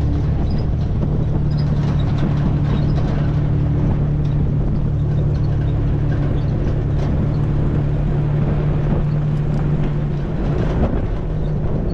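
A vehicle's engine drones steadily while driving, over a rumble of tyre and road noise. About ten seconds in, the engine note drops and wavers.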